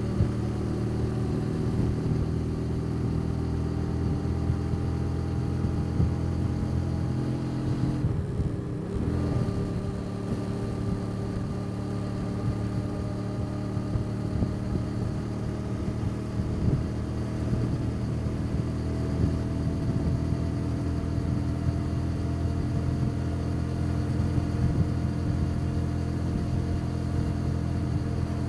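Motorbike engine heard from on board while riding, running steadily with its pitch slowly rising as it pulls. About eight seconds in, the throttle eases off briefly, then the engine picks up and climbs gradually again.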